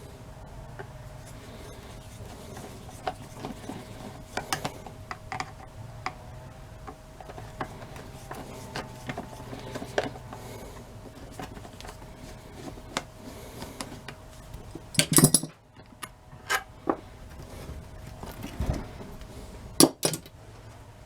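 Metal tools and parts being handled and set down during work on a vehicle starter: scattered clicks and clinks, with a louder clatter about fifteen seconds in and again near the end, over a faint steady hum.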